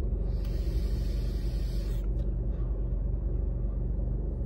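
Car engine idling, a steady low hum heard inside the cabin. A brief soft hiss comes in about half a second in and lasts about a second and a half.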